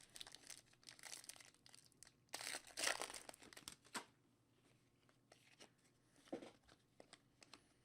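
Faint tearing and crinkling of a trading-card pack wrapper being opened and the cards handled. The rustling is loudest about two and a half to three seconds in, then only a few soft ticks remain.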